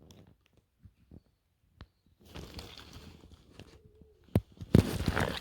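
Rustling and scattered small clicks, becoming a steadier rustle after about two seconds, with a couple of sharp knocks near the end.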